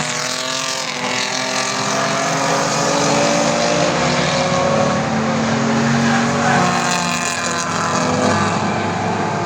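Classic race car engines running hard, several at once. The pitch drops in the first second and climbs again near the end as the engines rev and cars go by.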